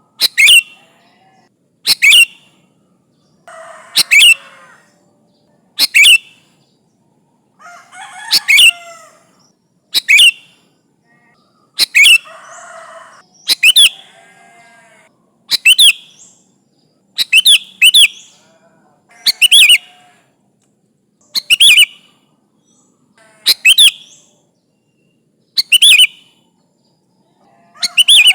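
Sooty-headed bulbul giving its rival-challenging call: loud, sharp whistled notes repeated about every two seconds, some in quick pairs, with softer chattering between a few of them.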